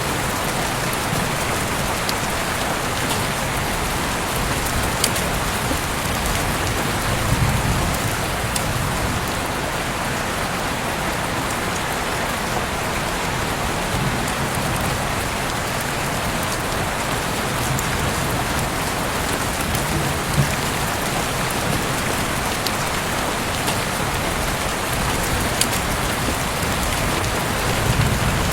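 Heavy rain falling steadily, an even hiss with scattered sharp drop ticks and a few brief low swells in loudness.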